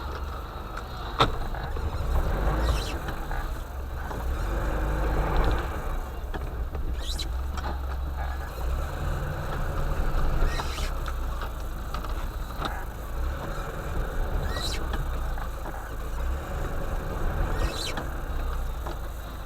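A vehicle engine running steadily at low revs, with a few short sharp knocks or scrapes scattered through.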